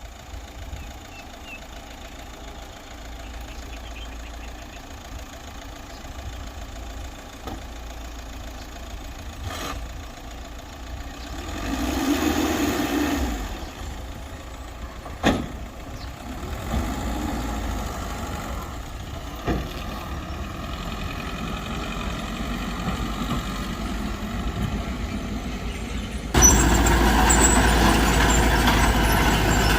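Diesel engines of a bulldozer and a dump truck working, with a few sharp knocks; the engine noise gets suddenly louder near the end.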